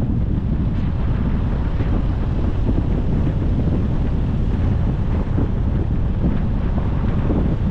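Steady low wind rumble buffeting the microphone of a moving car, with road noise beneath it.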